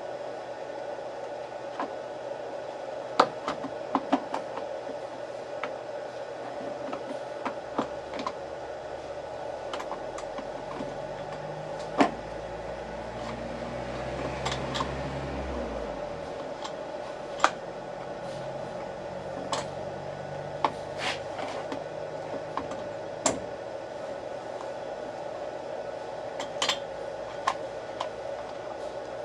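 Scattered sharp clicks and knocks of small parts and tools being handled during the repair of a post hole digger's starter, over a steady hum. A low rumble swells and fades in the middle.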